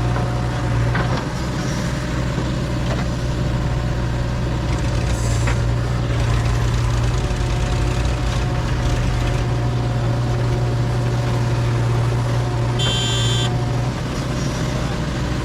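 JCB 3DX backhoe loader's diesel engine running steadily with a deep, even hum and a few faint knocks. A brief high-pitched tone sounds near the end.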